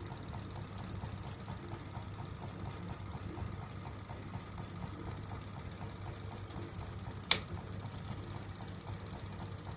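Homemade gamma-type Stirling engine running steadily, its mechanism making a rapid, even ticking over a low hum. A single sharp click about seven seconds in.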